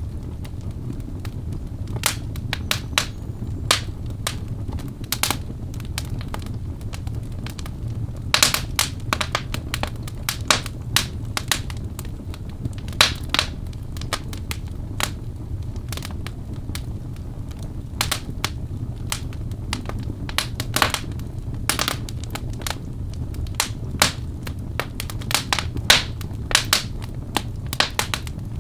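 Wood fire burning in a fireplace: irregular sharp pops and crackles from the burning logs over a steady low rumble of the flames, with a few louder snaps.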